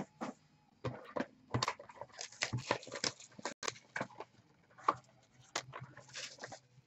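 Trading card packs and their boxes being handled: an irregular run of short rustles, crinkles and taps of foil wrappers and cardboard.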